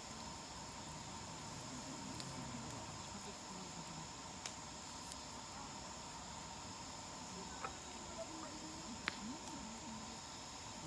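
Steady, faint chorus of crickets, with a few sharp crackles from the burning wood of a campfire, about five scattered pops with the clearest near the two-thirds mark.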